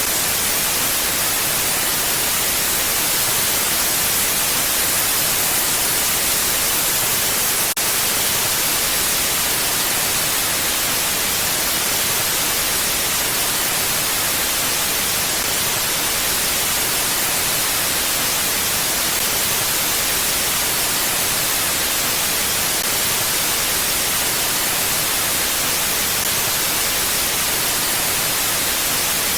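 Steady, even hiss of mountain wind ambience, bright and without gusts, with a tiny break about eight seconds in.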